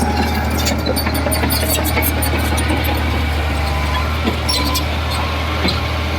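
Heavy construction-machine diesel engine running steadily at a low, even hum, with scattered light clicks and clanks over it.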